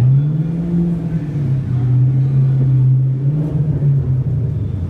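Chevrolet Camaro engine running at low revs as the car creeps along: the revs rise briefly at the start, then settle to a steady low note with a small lift about three seconds in.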